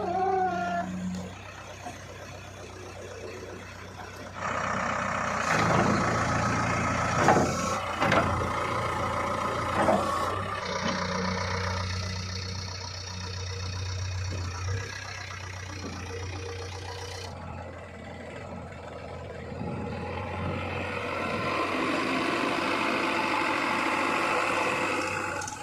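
Diesel engines of a JCB 3DX backhoe loader and a tractor running. The engine sound gets louder and rougher about four seconds in, with a few knocks, and swells again near the end.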